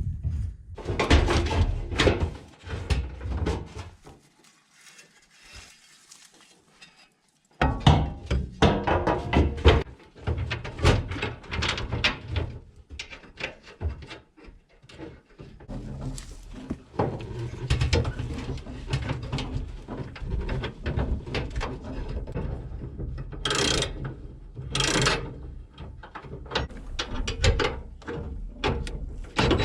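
Hand tools working on fuel-line fittings and hose clamps: irregular metallic clicking, ratcheting and knocking, broken by a nearly quiet stretch that ends abruptly about seven seconds in.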